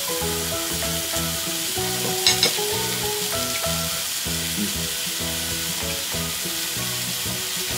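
Thick fried tofu (atsuage) and enoki mushrooms sizzling steadily on a hot electric mini grill plate, with one brief click about two seconds in.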